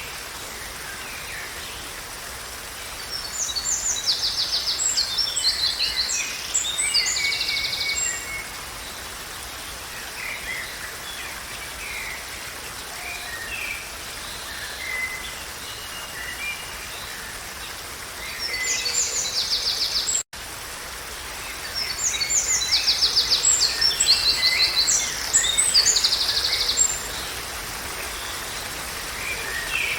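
A songbird singing over a steady background hiss: two long passages of loud, high, rapid trills and chirps, one a few seconds in and one in the second half, with softer scattered calls between. The sound drops out for an instant about two-thirds of the way through.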